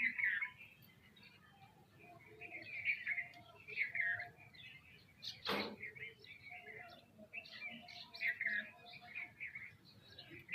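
A group of small birds, sparrows and mynas, chirping over one another in short repeated calls, with one sharp knock about five and a half seconds in.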